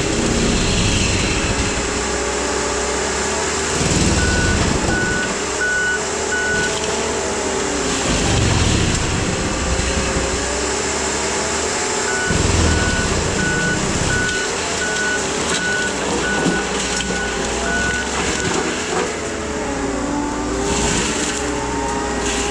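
Case skid steer running hard with its Shearex mulching head spinning, a steady engine and hydraulic drone. Its backup alarm beeps twice while the machine reverses: a short run a few seconds in, then a longer run of about ten beeps in the middle.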